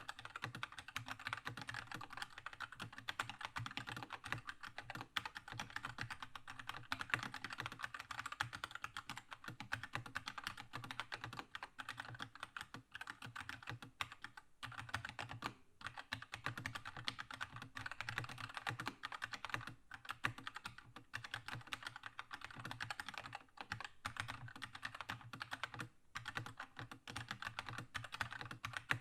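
Fast, continuous typing on a Keychron K2 mechanical keyboard with red linear switches: a dense run of key clacks with only a few brief pauses.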